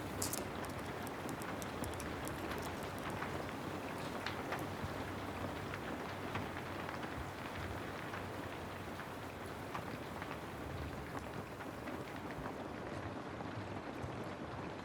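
Steady rain falling, with many sharp ticks scattered through it, thickest in the first three seconds.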